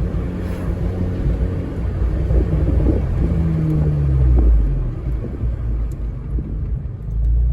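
Big-turbo VW Golf GTI Mk4 driving, heard from inside the cabin: a steady engine and road rumble. About three seconds in, the engine note falls in pitch as it gets louder, then eases off about halfway through.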